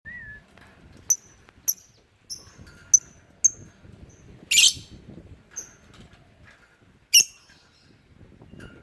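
Lovebird calling: a series of short, sharp, very high chirps about every half second, broken by two louder, harsh screeches, one about halfway through and one about two-thirds in.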